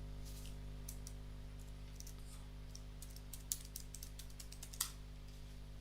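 Computer keyboard typing: a quick, irregular run of key clicks, with a couple of sharper keystrokes near the end, over a steady low electrical hum.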